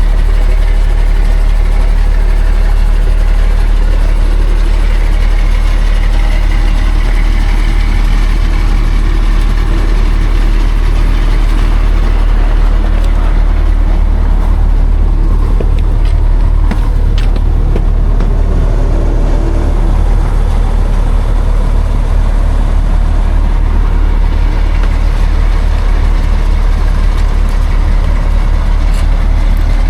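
Heavy logging truck engine running steadily with a deep, even rumble.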